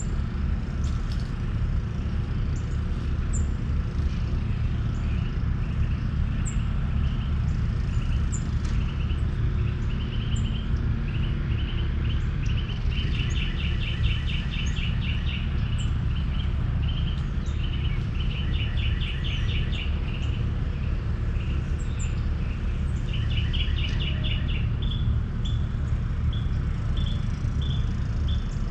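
Birds chirping over a steady low rumble, with several rapid trilled runs of notes about halfway through and near the end.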